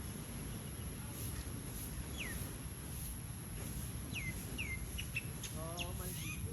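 Bird calls: several short chirps, each sliding downward in pitch, clustering in the second half, over a steady low rush.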